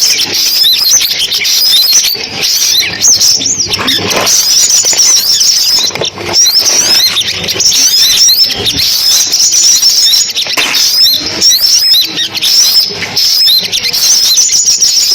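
Sunbirds calling: a continuous, loud stream of rapid, high-pitched chirps and twittering notes from several birds overlapping.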